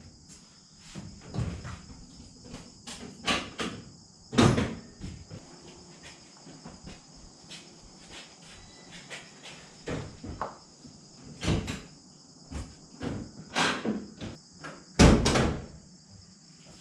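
Irregular knocks and clunks, a dozen or more, the loudest about fifteen seconds in, over a steady high chirring of crickets.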